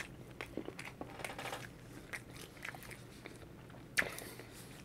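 A person chewing a burger with the mouth closed: small wet mouth clicks and smacks, with one sharper click about four seconds in.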